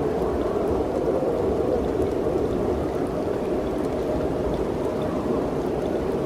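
Mountain wind blowing steadily: a low, even rush with a few faint light ticks over it.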